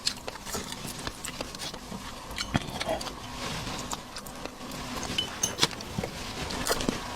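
A person chewing and smacking their lips while eating seafood: a run of short, irregular clicks.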